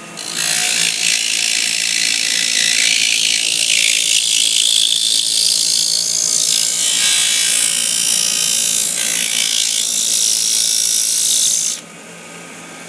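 A power tool grinding down a plastic medicine bottle to thickness, a loud, steady, high grinding noise that cuts off suddenly about a second before the end.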